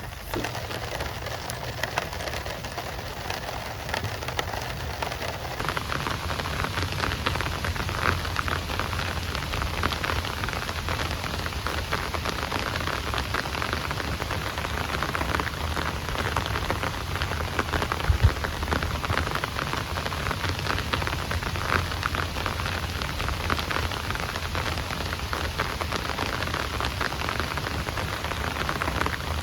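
Heavy rain falling steadily, a dense spray of drop hits, with one sharper louder hit about two-thirds of the way through.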